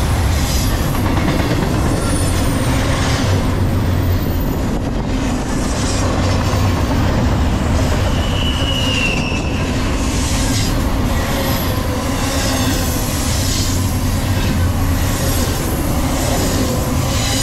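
Double-stack intermodal container train passing close by at about 48 mph: a steady heavy rumble of well cars and wheels on rail with a rhythmic clickety-clack, and a brief high-pitched squeal about nine seconds in.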